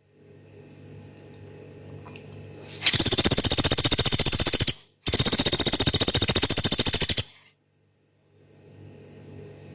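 Pelatuk beras, a small pygmy woodpecker, giving two long, harsh, high-pitched rattling calls, one after the other about a second in each. Each call is a very fast run of evenly repeated notes.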